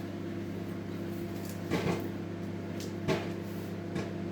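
Steady electrical hum of a running microwave oven, with about four short clicks and knocks from the seasoning containers being handled.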